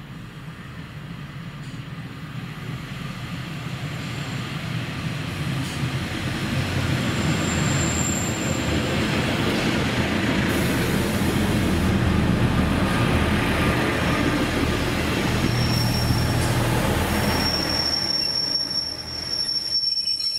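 A train approaching and running past on the line, growing louder over the first eight seconds and then staying loud, with high wheel squeal: a brief squeal about eight seconds in and a longer one through the last few seconds.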